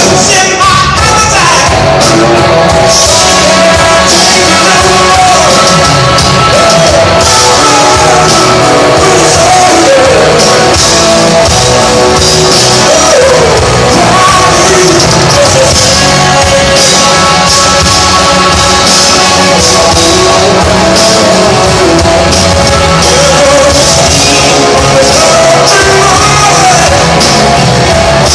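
Live blues-rock band playing loud and without a break, a lead line bending up and down in pitch over the full band.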